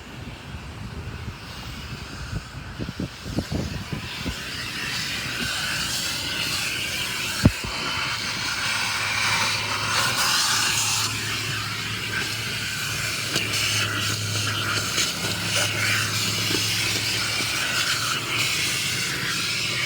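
Car wash equipment running: a steady rushing hiss that builds a few seconds in and holds, with a low hum underneath, and one sharp knock about seven and a half seconds in.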